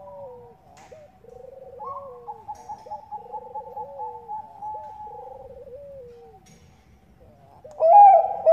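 Zebra doves (Bangkok-bred perkutut) cooing. There are three rolling, trilled coos, each ending in a downward slide, with a higher drawn-out note running over them, and a louder call comes in near the end.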